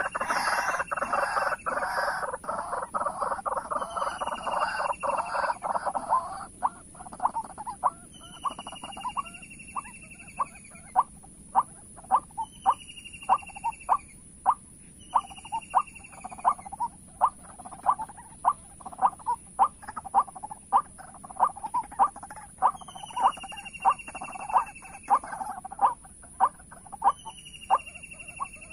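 White-breasted waterhens calling. A dense run of harsh croaking calls for the first six seconds gives way to sharp, evenly repeated notes about two a second, with a falling whistled note every couple of seconds. A steady high-pitched hiss runs underneath.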